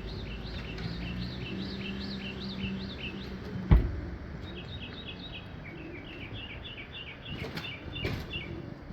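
Small birds calling in quick runs of repeated high chirps, broken about four seconds in by a single sharp loud snap, with two fainter snaps near the end.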